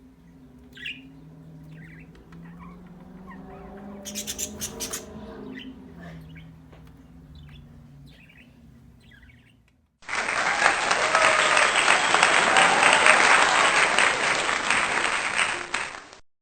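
Pet birds chirping with short, scattered calls over a faint low hum, with a brief burst of rapid clicks about four seconds in. About ten seconds in, a loud, even rushing noise cuts in abruptly, runs for about six seconds and stops suddenly.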